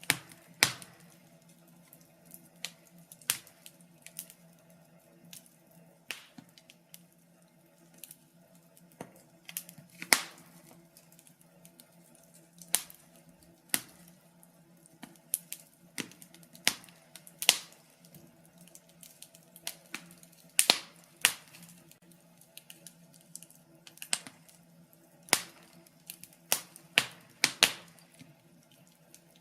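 Wood fire in a fireplace crackling, with irregular sharp pops and snaps, some in quick clusters, over a faint low steady hum.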